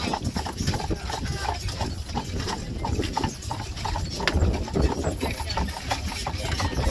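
Horse's hooves clip-clopping in a quick, even rhythm as it pulls an Amish buggy, the horse urged on and picking up pace, over a low rumble of the rolling buggy.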